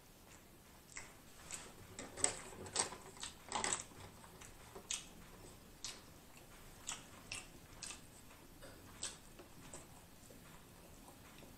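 Faint chewing of a mouthful of corn dog: irregular wet mouth clicks and smacks, coming quickly about two to four seconds in and more sparsely after.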